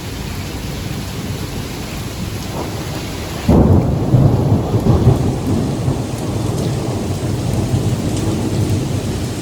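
Steady heavy rain, then about three and a half seconds in a sudden loud clap of thunder that breaks into a long low rumble, slowly easing.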